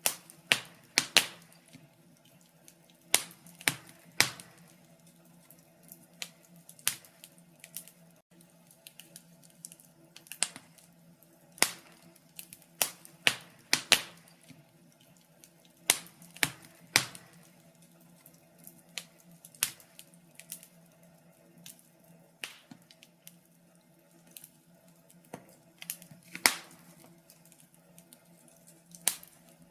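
Wood fire crackling in a fireplace: sharp pops and snaps at irregular intervals over a faint steady hum.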